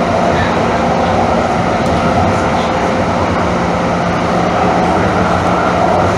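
Calgary Transit CTrain light-rail car running, with a steady rumble and a low hum that hold level throughout.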